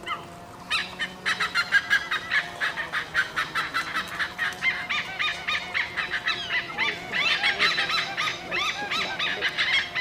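A flock of birds calling over one another in a dense chatter of short, quick notes, starting about a second in.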